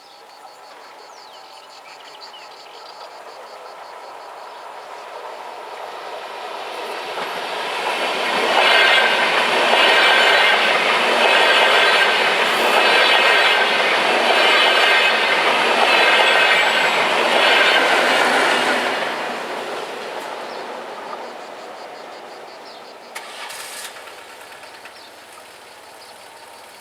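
A train passing over the level crossing. It grows louder over several seconds and stays loud through the middle with a regular clickety-clack of wheels over rail joints, about one beat a second, then dies away. There is a brief knock near the end.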